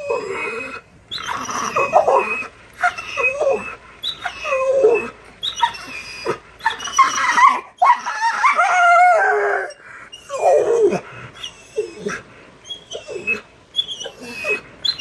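Pit bull "talking": a string of whining, whimpering vocal sounds that bend up and down in pitch. Most are short, with one long drawn-out call a little past the middle.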